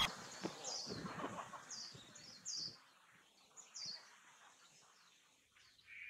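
Faint bird chirps: several short, high, falling notes, mostly in the first four seconds.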